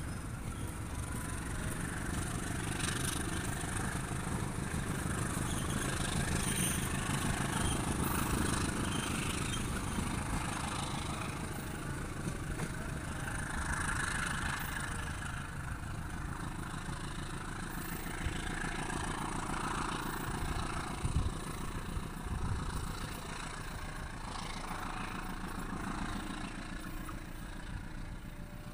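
Diesel-hauled local passenger train pulling away, a steady rumble of wheels on the rails. It is loudest in the first third and fades gradually as the train recedes, with one brief knock near the end.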